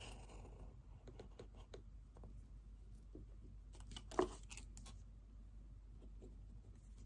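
Quiet pen-and-paper desk sounds: faint writing scratches and paper handling with small clicks, and one sharper knock about four seconds in.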